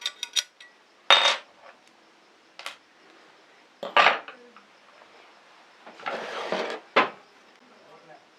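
Small metal oil can parts being handled, clinking against each other and set down. There is a quick run of light clicks at the start, louder knocks about one, four and seven seconds in, and a short scrape just before the last knock.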